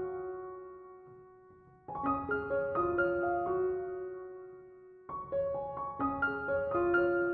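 Gentle relaxation music on a piano-like keyboard. A quick rising run of notes ending on a held note that slowly fades is played twice, about three seconds apart.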